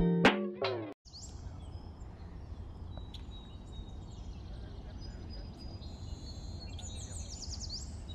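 Plucked guitar music ends about a second in, giving way to a steady low rumble with faint bird chirps above it and a small cluster of chirps near the end.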